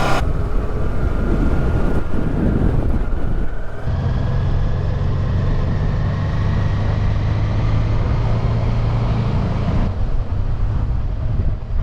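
Honda Deauville motorcycle's V-twin engine running at low speed, with wind and road noise on the rider's microphone; about four seconds in, the sound settles into a steady low engine note with less noise.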